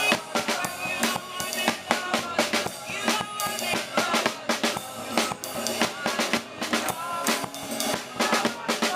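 Live gospel band music: a drum kit with bass drum, snare and rimshot hits keeps a steady beat under wavering melody lines.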